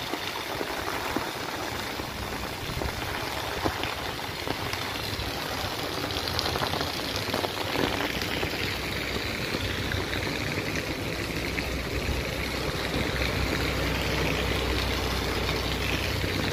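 Heavy rain falling steadily on a wet street and pavement, an even hiss of drops. A low rumble grows in the second half.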